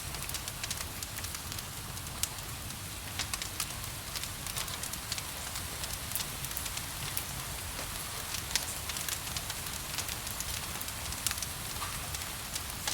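Wood fire crackling, with frequent sharp pops and snaps, over a steady hiss of falling rain and a low rumble.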